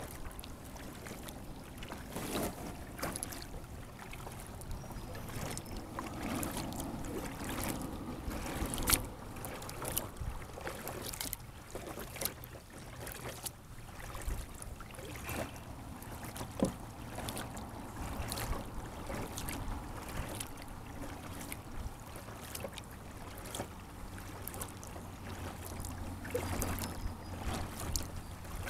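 Kayak paddle strokes in lake water: splashing and dripping, with many scattered sharp ticks and a faint low steady hum underneath.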